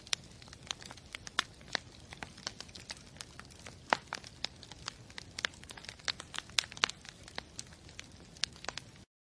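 Wood campfire crackling, with irregular sharp pops, several a second, over a steady hiss; it cuts off suddenly near the end.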